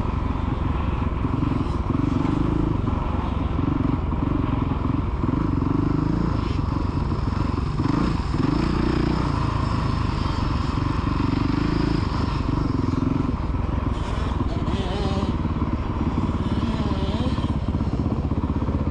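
Motocross dirt bike engines running on the track, the engine note rising and falling as the throttle is opened and closed.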